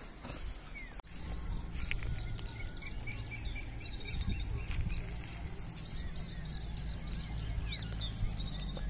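Small birds chirping with many short, rapidly repeated high notes over a steady low rumble.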